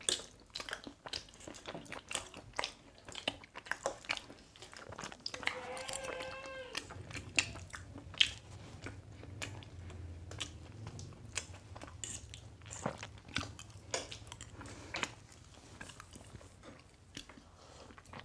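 Close chewing and biting of soft bread and vermicelli by two people eating, full of small wet mouth clicks and smacks. A brief hummed voice sound comes about six seconds in.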